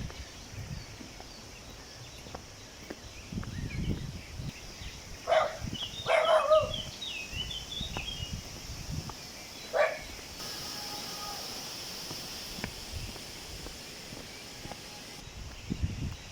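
A dog barking outdoors, three short barks about five, six and ten seconds in, with a few bird chirps, some footsteps and a faint steady hum in the middle.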